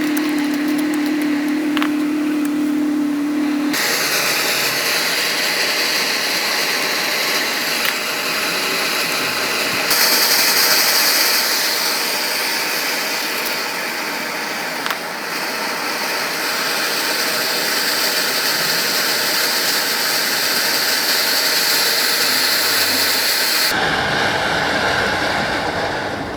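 Loud, steady hiss of a jet blown from a nozzle onto carburetor parts during cleaning. A steady hum drops out about four seconds in, the hiss grows stronger about ten seconds in, and it cuts off a few seconds before the end.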